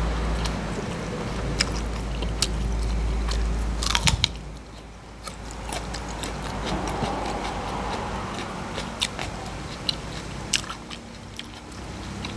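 A person chewing a mouthful of food close to the microphone, with scattered crisp crunches and wet mouth clicks and a louder burst of crunching about four seconds in.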